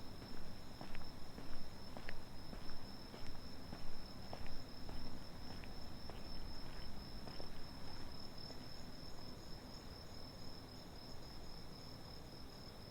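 Night insects trilling steadily in a high, pulsing chorus, with the walker's footsteps on pavement about two a second that fade out about two-thirds of the way through.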